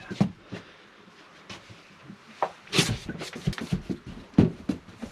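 A toilet being lifted off its floor flange by hand: scattered knocks and clunks, with a longer scrape about three seconds in.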